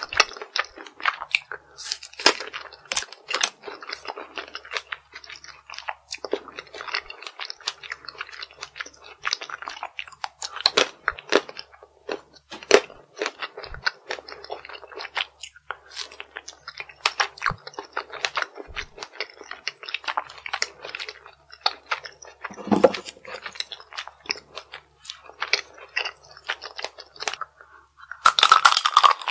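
Close-up crunching and chewing of chocolate strawberry tanghulu: the hard candy shell cracks in repeated sharp crunches as it is bitten and chewed, with a louder crunch near the end.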